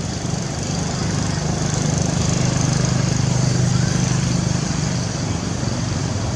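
An engine running steadily, growing louder in the middle and then easing off.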